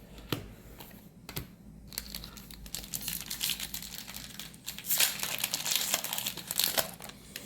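A Magic: The Gathering booster pack's foil wrapper being torn open and crinkled by hand: a couple of light clicks, then about five seconds of crinkling.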